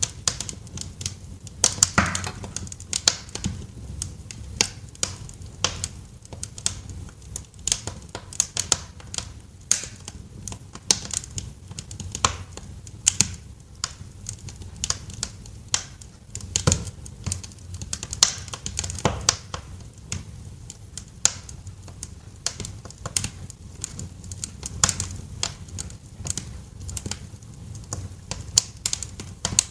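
Wood fire crackling in a fireplace: irregular sharp pops and snaps, a few a second, over a low steady rumble.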